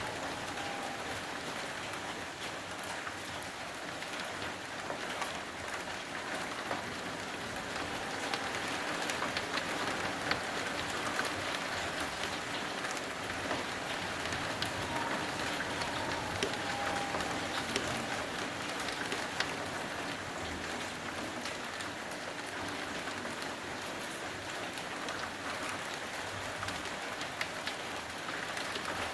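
Heavy rain falling steadily: a constant hiss with frequent sharp ticks of drops landing close by.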